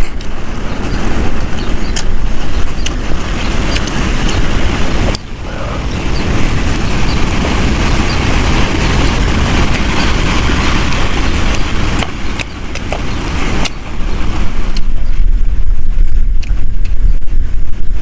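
Strong wind buffeting the microphone: a heavy, uneven rumble that eases briefly about five seconds in and again around twelve seconds, then comes back loudest near the end, with scattered small clicks over it.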